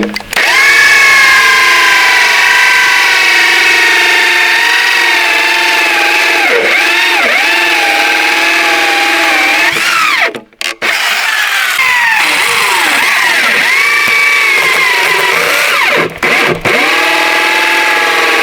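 A small engine runs loudly and steadily, its pitch dipping and recovering several times as if it is under load. The sound cuts out suddenly for a moment twice, once about halfway through and again near the end.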